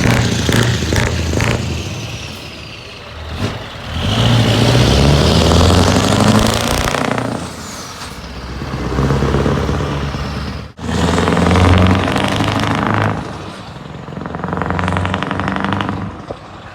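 Scania R500's V8 diesel engine through an open, unsilenced exhaust pipe, revving up and falling back in about five surges.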